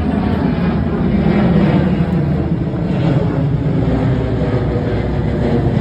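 Car engine running loudly with a steady low exhaust drone, cutting off abruptly at the end.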